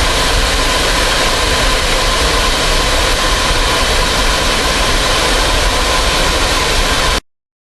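Fighter jet engine running steadily and loudly, with a steady whine over the roar. It cuts off suddenly near the end.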